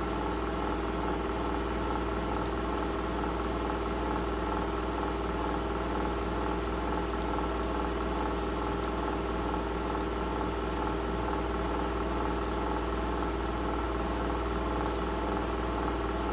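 Steady mechanical hum made of several fixed tones, unchanging throughout, with a handful of faint short clicks.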